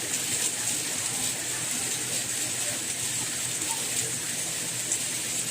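Steady soft rain: an even high hiss with a few faint scattered drop ticks.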